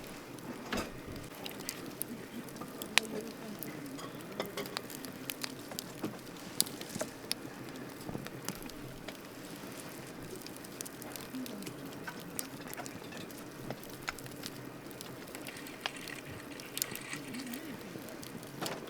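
Wood campfire crackling: irregular sharp pops and snaps over a steady low hiss, with one louder pop about three seconds in.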